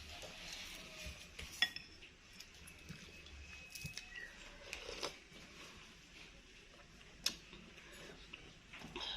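Spoon and cutlery clinking against a bowl of bakso during eating, with scattered small clicks and two sharper clinks about one and a half seconds and seven seconds in.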